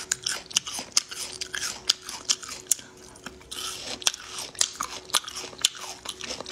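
Close-miked chewing of spicy braised cowhide: wet mouth clicks and crunches, several a second. A faint steady hum runs underneath.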